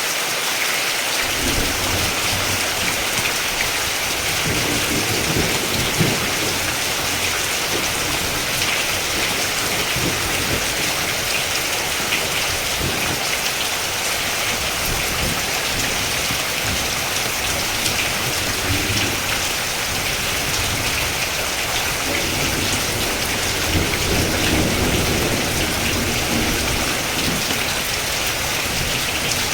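Steady heavy rain, with low thunder rumbling in the background at times.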